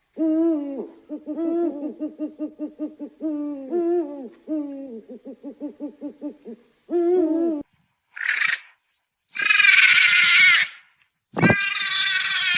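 An owl hooting: deep pitched hoots, each followed by runs of rapid, evenly spaced trilled notes, for about seven seconds. From about eight seconds in, louder harsh, noisy animal calls follow.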